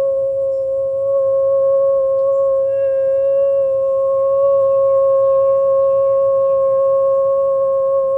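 A woman's voice holding one long, very steady toning note at a constant pitch, with a slight waver near the end. Faint descending bird chirps come through about three to six seconds in.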